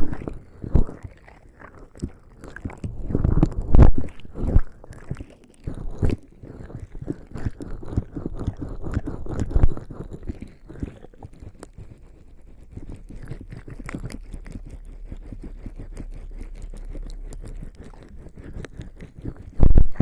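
Bare skin slick with lubricating jelly rubbing and sliding over a binaural ASMR microphone, making wet, sticky, irregular strokes, with a few heavy bumps against the microphone near the start, about four seconds in, and at the end.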